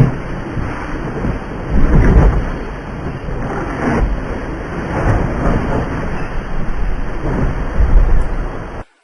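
Wind buffeting the microphone: a loud, gusty rumble with surges about 2, 4 and 8 seconds in, cutting off suddenly near the end.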